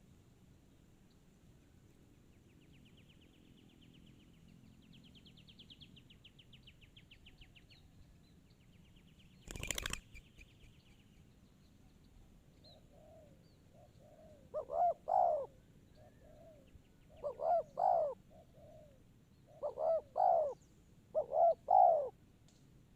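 Spotted dove cooing: four loud phrases of two or three low, hooting notes each, spaced a couple of seconds apart in the second half, led in by softer coos. Earlier there is a faint high rapid trill, and a single sudden loud noise just before the ten-second mark.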